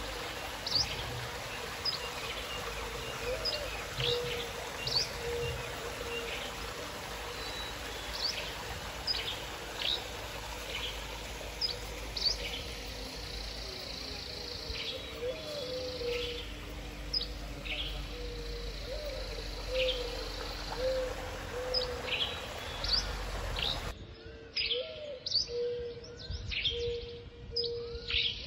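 Wild birds chirping and singing, short high calls coming every second or so, over a low rumble of light wind. About 24 seconds in the sound cuts abruptly to another recording, again with birds chirping.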